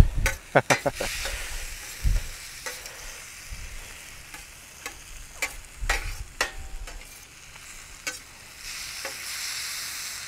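Diced chicken and onions sizzling on a stainless steel griddle pan over charcoal, with a perforated metal spatula scraping and clacking against the pan as they are stirred. The sizzle grows louder near the end.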